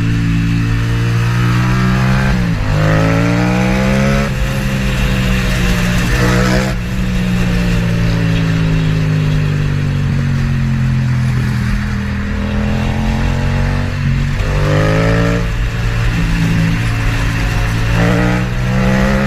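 Motorcycle engine accelerating hard several times, its pitch climbing and then dropping back at each gear change, with stretches of steady running and easing off between.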